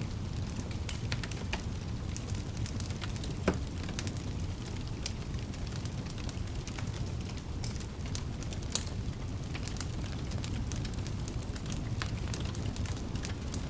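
Wood fire burning in a fireplace: a steady low rumble of flames with frequent sharp crackles and pops. The loudest pop comes about three and a half seconds in, and another strong one near nine seconds.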